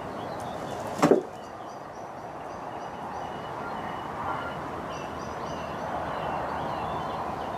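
A single sharp crack about a second in, typical of a shot from a BSA R10 Mk II .177 pre-charged air rifle. After it, birds chirp faintly over a steady wind rush.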